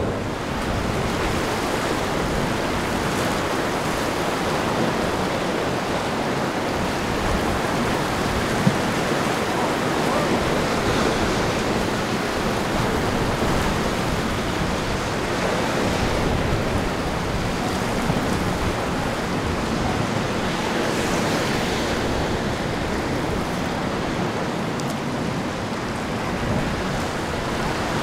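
Steady rush of surf and wind at the inlet, with wind buffeting the microphone.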